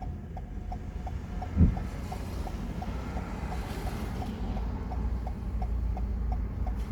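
Steady low rumble of a car's engine and tyres heard from inside the cabin, with the turn indicator ticking evenly about three times a second while waiting at a junction. A single low thump comes about a second and a half in.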